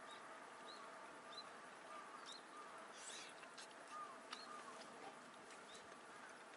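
Faint bird calls: short rising chirps about once a second, with a few lower curving whistles and scattered light clicks over a steady outdoor hiss.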